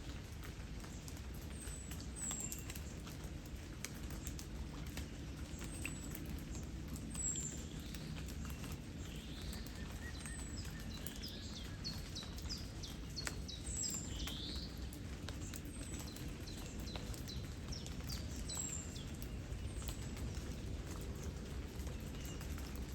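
Light rain pattering in scattered drop ticks over a low steady rush of flowing water. Birds chirp over it: a short high chirp every couple of seconds, and a flurry of quick calls in the middle.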